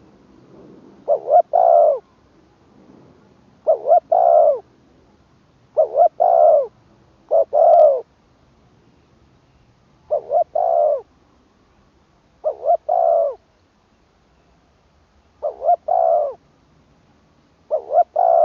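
Spotted dove cooing in repeated phrases, each two short notes followed by a longer coo, eight phrases about every two seconds.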